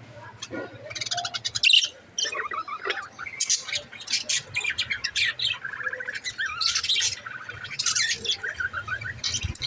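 Pet budgerigar chirping and warbling: a rapid, continuous chatter of short high notes.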